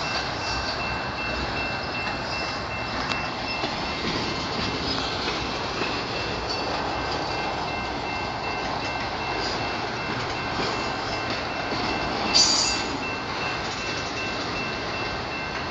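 Freight train of autorack cars rolling slowly past on the rails, a steady rumble and clatter of wheels, with a faint steady high-pitched tone over it. A brief louder swell about twelve seconds in.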